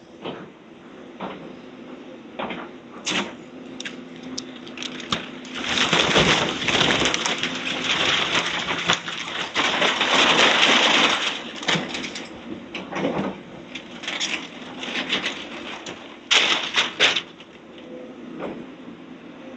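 Demolition debris cracking, breaking and being crushed during a house teardown, with a long spell of dense crunching about six to eleven seconds in and a few sharp cracks near the end. A steady machine engine hum runs underneath.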